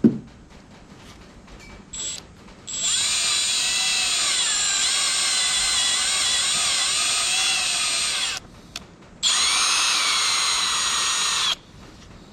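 Power drill boring a hole along the crack in an engine block, run in two stretches, about six seconds then about two, its whine dipping and recovering as the bit loads up. A short blip of the drill comes just before, and a knock at the very start.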